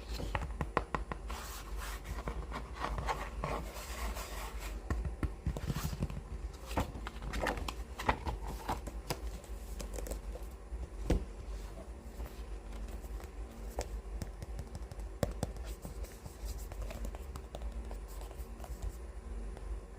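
Fingertips and nails tapping and scratching on book covers, with rustling as the books are handled. The tapping and scratching are busy in the first half and thin out to scattered single taps later.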